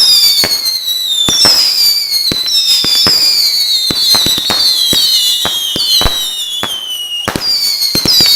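Fireworks going off: several shrill whistles overlap, each sliding slowly down in pitch over a second or two. New whistles start every second or so, mixed with many sharp pops and bangs.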